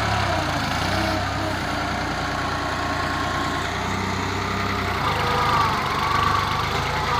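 New Holland tractor's diesel engine running steadily at low revs.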